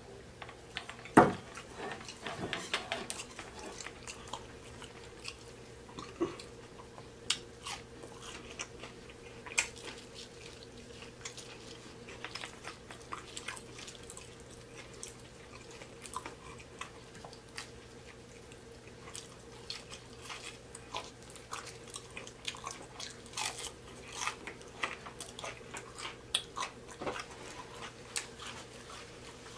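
Close-miked biting and chewing of crunchy fried fish and shrimp, with irregular crunches and mouth smacks over a faint steady hum. A sharp knock about a second in is the loudest sound.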